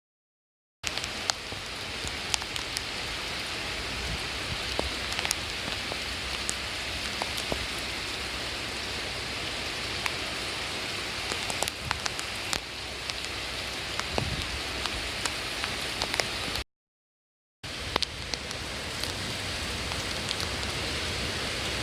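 Heavy typhoon rain falling: a steady hiss with scattered sharp drips and taps. It starts about a second in and cuts out for about a second near the end before resuming.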